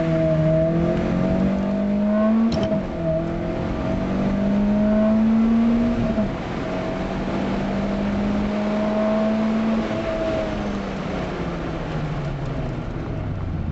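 Peugeot 205 Mi16's 16-valve four-cylinder engine under full-throttle acceleration, heard from inside the cabin. The revs climb, drop at a gear change about two and a half seconds in, climb again and drop at a second change about six seconds in, then rise more slowly until about ten seconds in, when they fall away.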